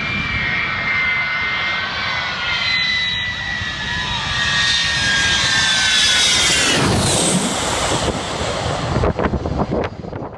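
Aircraft jet engines running, a loud roar with a high multi-tone whine that slowly falls in pitch and swells toward the middle. There are a few sharp thumps near the end.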